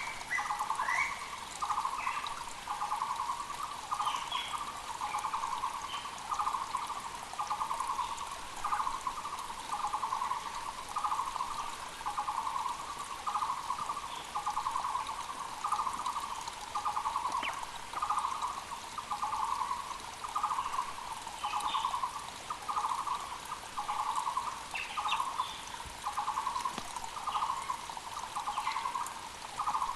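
A Taiwan barbet (Muller's barbet) calling steadily, a long run of repeated trilled notes about one a second, over the constant rush of a mountain creek. Short chirps of other birds come through now and then.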